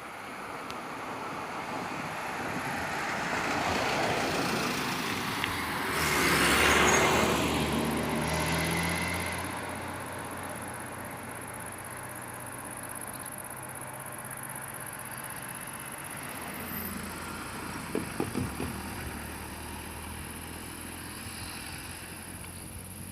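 A car drives past on the road. Its noise builds to a peak about six to seven seconds in, and its pitch falls as it goes by. A few short knocks follow later on.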